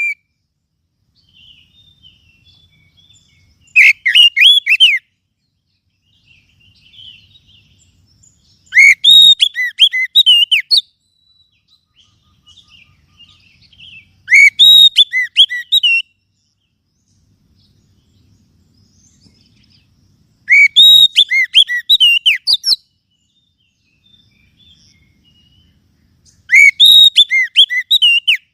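Oriental magpie-robin (kacer) song: five loud bursts of rapid, repeated looping whistled notes, each lasting a second or two and coming about every five to six seconds, with faint chirps between them. A lure song played to a captive kacer to get it singing.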